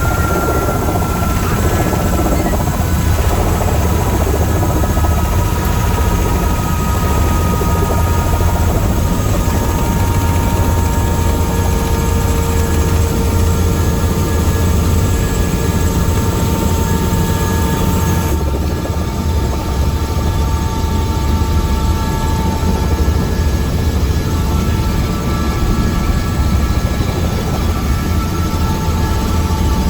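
Tour helicopter in flight: a steady, loud rotor and engine drone with a thin turbine whine that slowly sinks in pitch. The high hiss dulls abruptly about two-thirds of the way through.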